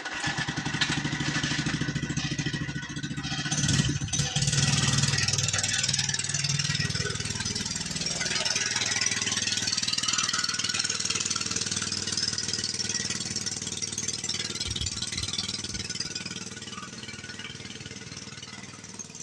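Mini bike's small single-cylinder engine running under throttle, picking up speed about four seconds in, then holding steady and growing fainter near the end.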